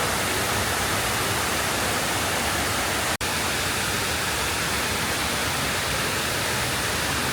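Steady, even rushing noise, cut off for an instant about three seconds in.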